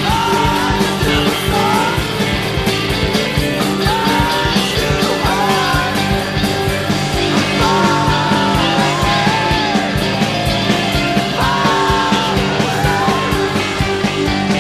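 Rock band playing a loud instrumental passage: a steady drum beat under sustained low chords, with a lead line that bends up and down in pitch.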